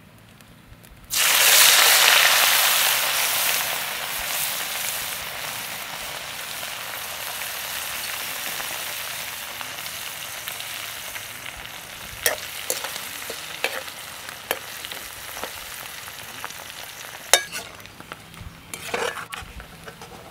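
Food dropped into hot oil in a metal wok, breaking into a sudden loud sizzle about a second in that slowly settles into steady deep-frying, with sharp pops and clicks in the second half.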